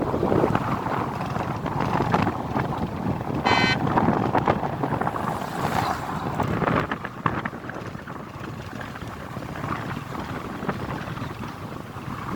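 Wind buffeting the microphone, louder for the first several seconds and then easing. About three and a half seconds in there is one brief high-pitched tone.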